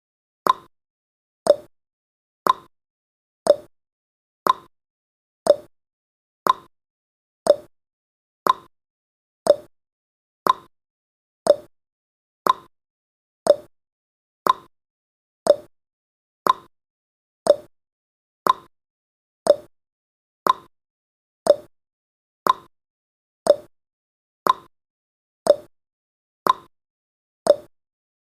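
Clock tick-tock sound effect of a countdown timer: one short click each second, alternating between a higher tick and a lower tock.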